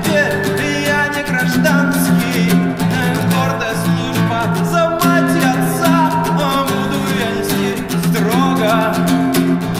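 Acoustic guitar strummed in a steady rhythm under a sung melody, in an acoustic rendition of a punk song.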